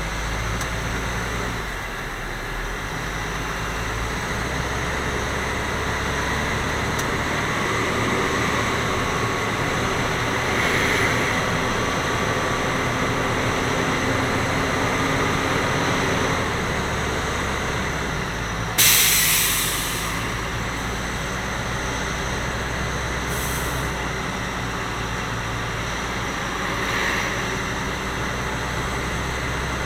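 Grapple truck's engine running steadily under an even hiss, with a short, loud hiss about two-thirds of the way in that fades away over about a second, and two fainter hisses after it.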